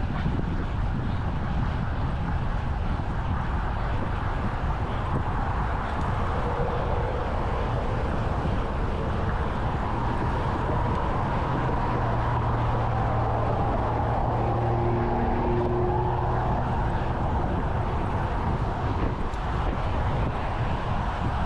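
Steady wind and road rush from a moving bicycle ride, with a motor vehicle's engine hum rising and falling as it passes in the middle of the stretch.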